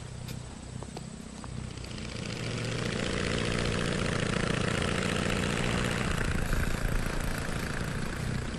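Propeller aeroplane engine running steadily. It grows louder over the first three seconds, holds, then eases off slightly near the end.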